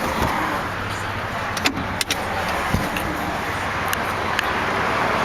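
Rear seatbacks of a 2009 Scion xB being folded down: several sharp latch clicks and a low clunk over steady outdoor background noise.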